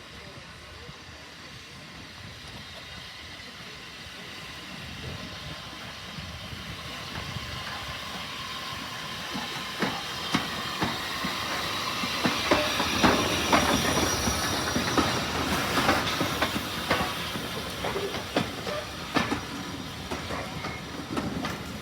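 A steam train approaching and passing, growing steadily louder, with steam hissing and, from about halfway, a run of sharp clicks and clanks from the wheels on the rails.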